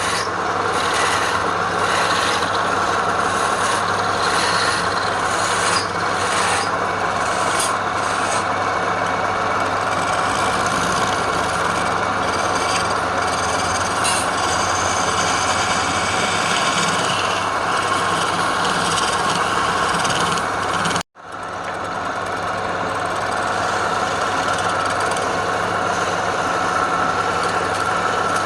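Wood lathe running steadily while a turning tool scrapes and cuts the spinning wood, with rasping, scratchy noise over the motor's hum. About three quarters of the way through, the sound drops out for an instant, then comes back.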